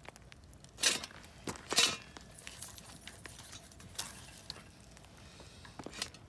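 A few short clinks and knocks, the two loudest close together about a second in, with fainter ticks scattered between.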